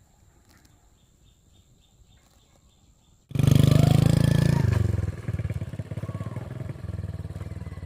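Old motorbike engine running. It is faint at first, then cuts in loud a little over three seconds in and settles after about a second and a half to a lower, steady beat.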